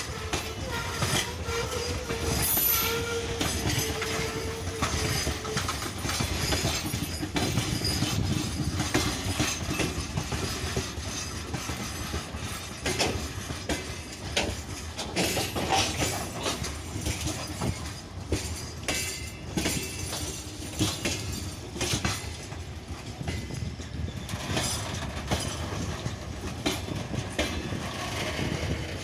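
Freight train wagons rolling past, their wheels clicking steadily over the rail joints, with a squealing tone from the wheels during the first few seconds.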